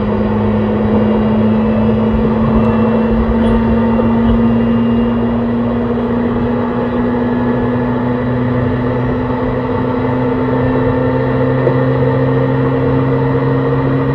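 Hitachi hybrid SiC VVVF inverter and traction motors of a JR East E131 series 600-subseries electric train heard from inside the car: a steady electric hum of several tones that rises slowly in pitch as the train gathers speed, over the continuous rumble of the running train.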